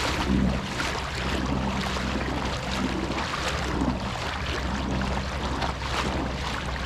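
Water lapping against a kayak hull, with wind on the microphone, over the steady low hum of a MotorGuide Xi3 electric trolling motor holding the kayak in place.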